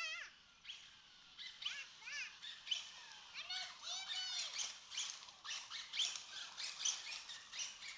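Birds chirping: many short, quick calls, rising and falling in pitch and overlapping one another.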